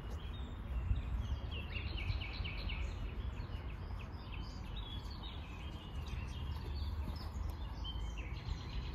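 Small birds chirping, many short high chirps scattered throughout, over a steady low rumble of outdoor background noise.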